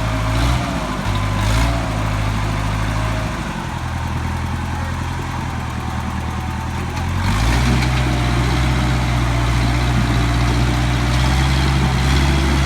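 Diesel engine of heavy equipment running steadily. Its note shifts about three seconds in, and it gets louder and heavier about seven seconds in, as if taking on load.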